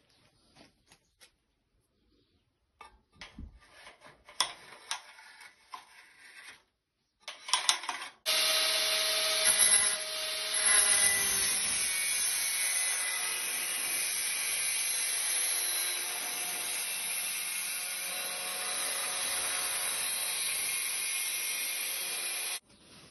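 A few scattered knocks and clicks of material being handled, then a power tool starts about eight seconds in and runs steadily for about fourteen seconds with a shifting whine over a hiss, cutting off suddenly near the end.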